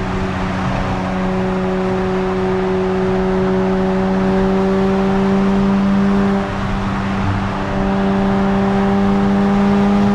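Nissan Z Nismo's twin-turbo V6 running through a Nismo Track exhaust at a steady cruise, a constant exhaust drone that dips briefly about six seconds in and then resumes.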